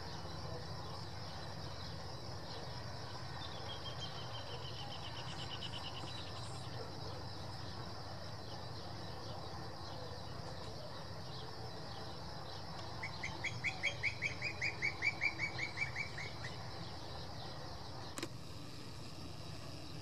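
Rural outdoor ambience: a steady insect drone over a low steady rumble, with a bird's quick run of falling notes about four seconds in. From about thirteen to sixteen seconds a louder bird call of rapid repeated notes, the loudest sound here, and a single click near the end.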